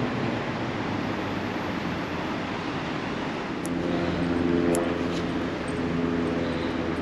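Steady outdoor background noise, joined about three and a half seconds in by the low, even hum of a running engine that holds one pitch.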